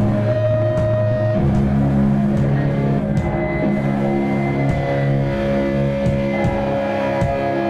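Live rock band music: electric guitar and bass holding long sustained notes that shift pitch every second or two.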